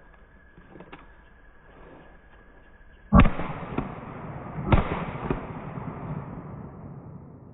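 Two pistol shots about a second and a half apart, each loud and followed by a long echo that dies away over a few seconds.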